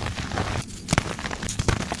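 Soft gym chalk being crushed, crumbling and crackling with a sharp snap about a second in and a few smaller cracks after.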